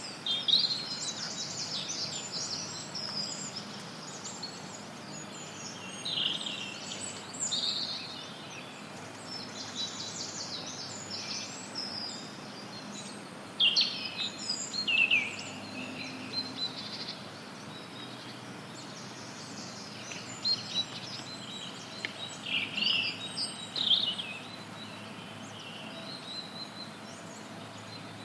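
Forest songbirds chirping and giving short trills, on and off, over a steady hiss of white noise. The calls thin out near the end.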